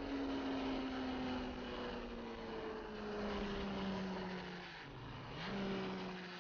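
Sport motorcycle engine running under way, its pitch slowly sinking, stepping down about three seconds in, then dipping sharply and climbing back about five seconds in, over rushing wind noise.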